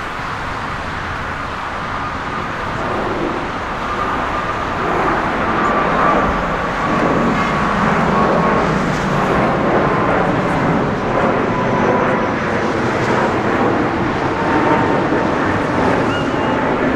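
Jet airliner engines running as an aircraft passes, a whining tone that slowly falls in pitch over a steady rushing noise, growing louder over the first few seconds and then holding.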